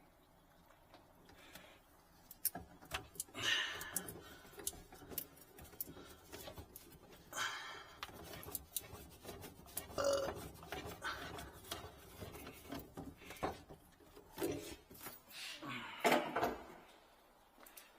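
Scattered light clicks and knocks with a few short scraping, rubbing noises, from plumbing parts being handled and fitted at a kitchen sink.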